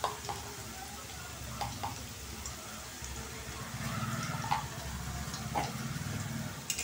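Potato wedges frying in hot oil in a kadai: a soft, steady sizzle with scattered small crackles. A low hum comes in underneath about halfway through.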